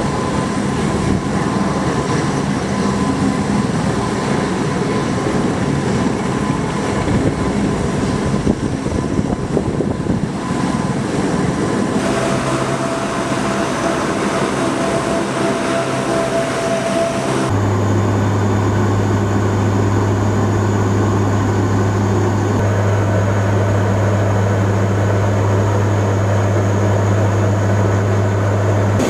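MV-22B Osprey tiltrotor's turboshaft engines and proprotors running: a loud, steady drone with a steady hum. The sound changes abruptly about twelve seconds in and again about seventeen seconds in, after which a strong low hum dominates.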